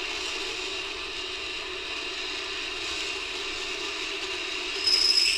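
Subway train sound effect: a steady rumble, joined near the end by a louder high-pitched squeal.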